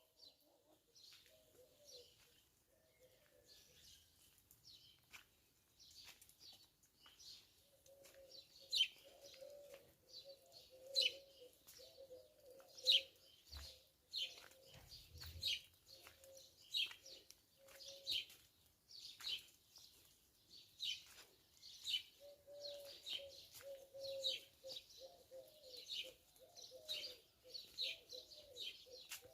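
Small birds chirping with short, falling high notes, roughly one a second and growing more frequent, over a dove's low cooing that runs for several seconds at a time, pauses mid-way, then returns.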